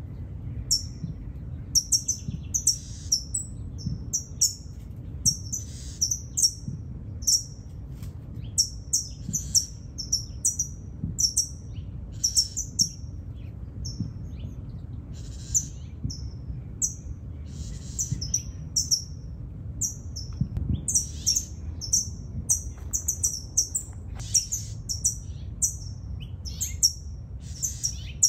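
Small birds chirping: short, high, thin notes that drop in pitch, repeated irregularly a couple of times a second, over a low steady rumble.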